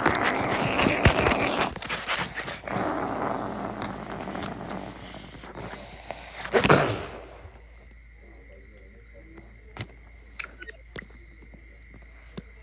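Toys being shaken and knocked about, with steady rustling and clattering and a loud crash about seven seconds in, then only a few light taps.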